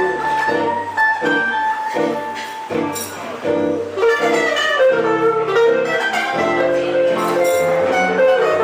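Live band music led by plucked guitar, a quick run of pitched notes over a bass line.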